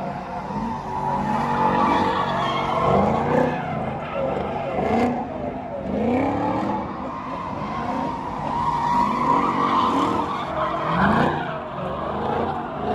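Car engines revving over and over, each rev a rising pitch, under a continuous tire squeal: cars doing burnouts.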